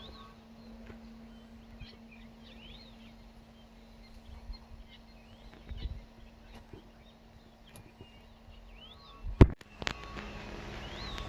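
Small birds chirping over a steady low hum, with one sharp, loud knock about nine seconds in, followed by louder hiss.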